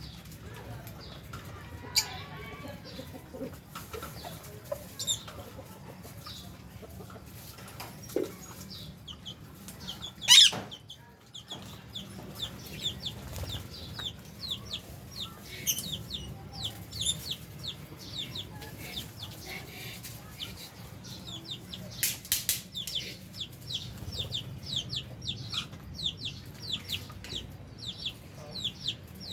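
A flock of lovebirds and budgerigars chirping and chattering in short, sharp, falling calls. The calls come thick and fast from about halfway on, with one loud screech about ten seconds in.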